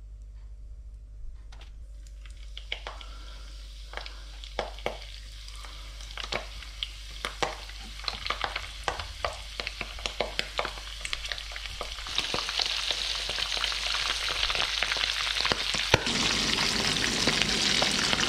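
Breadcrumbed oysters shallow-frying in hot oil in a pan. Sharp crackles and pops come as the pieces go in, then it builds to a louder, steady sizzle about twelve seconds in, louder again near the end.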